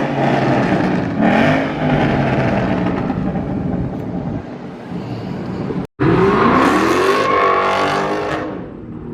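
Car engine revving hard, its pitch climbing and falling several times. About six seconds in the sound cuts out for a moment, then another rev rises and falls.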